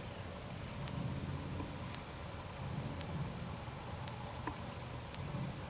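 Steady, shrill chorus of insects with two even high-pitched bands of trilling, over a faint low rumble that swells a few times.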